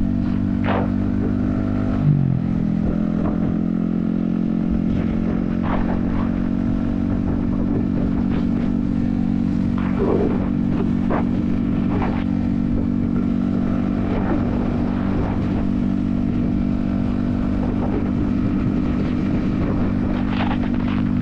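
Yamaha XSR155's 155cc single-cylinder engine running at a steady cruising speed, its pitch holding constant, heard from a helmet-mounted camera. A few brief ticks are scattered through it.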